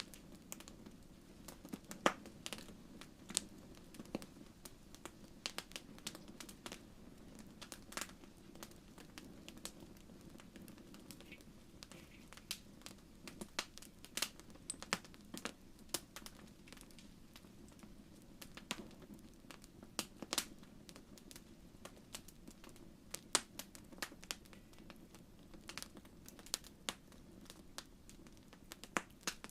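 Wood fire in a fireplace crackling, with irregular sharp pops and snaps over a low, steady rushing of the flames.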